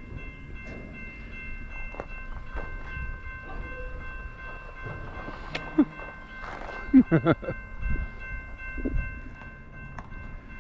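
BNSF auto rack freight train crawling through a grade crossing, with a low rumble, a few knocks, and a steady high-pitched ringing tone held throughout.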